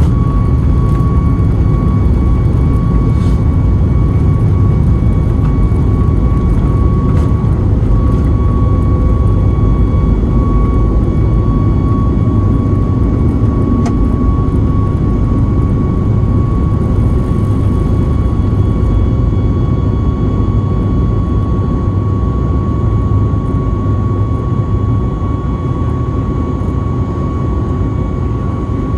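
Boeing 737-9 MAX's CFM LEAP-1B jet engines heard from inside the cabin: a steady, loud rumble with one steady whine on top, easing slightly near the end.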